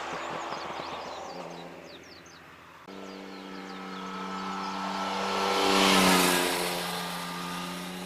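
Yamaha Tracer 900 GT's inline-three engine riding past at steady speed. The exhaust note fades, cuts off about three seconds in, then swells as the bike approaches, peaks about six seconds in and drops slightly in pitch as it moves away. Faint bird chirps over it.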